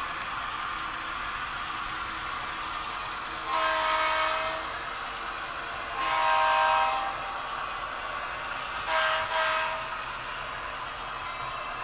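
Sound-equipped model Union Pacific GP38-2 diesel locomotive blowing its chord horn: two long blasts, then two short ones close together near the end, over a steady running hiss.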